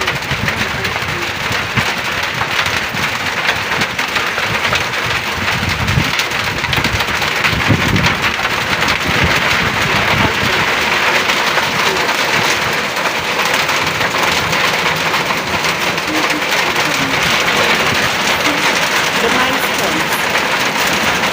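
Heavy rain pouring steadily, getting a little heavier about halfway through, with a few brief low rumbles early on.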